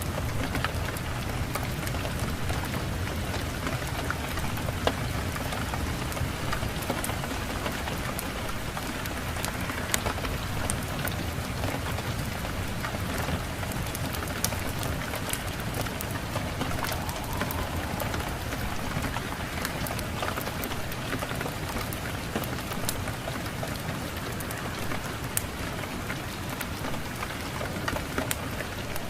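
Steady rain with a low rumble and frequent sharp pops and crackles, mixed with a crackling wood fire.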